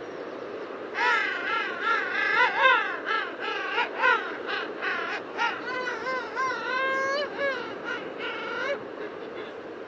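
Penguin calling: a long run of short, harsh honking notes that rise and fall in pitch, starting about a second in and stopping near the end, over a steady background hiss.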